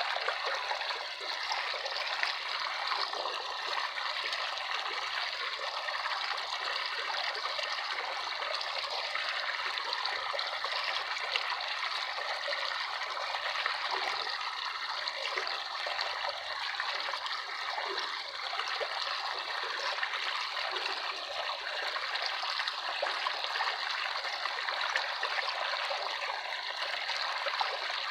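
Running water trickling steadily, like a small stream.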